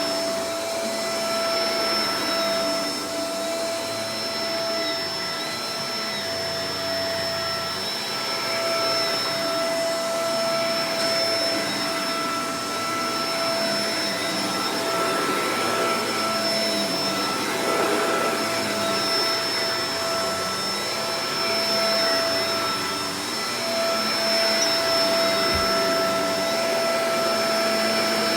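Shark Professional Powered Lift-Away DLX (NV586) upright vacuum cleaner running steadily: a rush of airflow with a high, constant motor whine on top.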